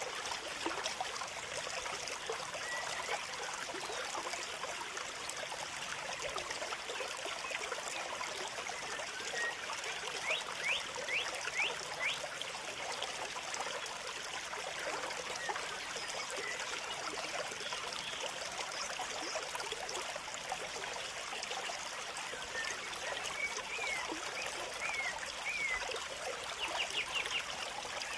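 Steady trickling, running water, with small birds giving short, quick high chirps in a cluster about ten seconds in and again near the end.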